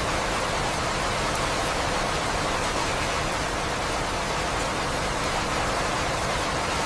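Steady rain, a continuous even hiss with no breaks or distinct drops standing out.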